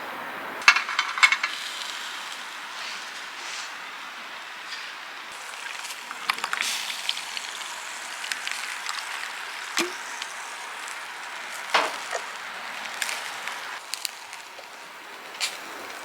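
Food sizzling steadily as it cooks over heat, with a cluster of sharp clicks about a second in and scattered crackles and clicks after that.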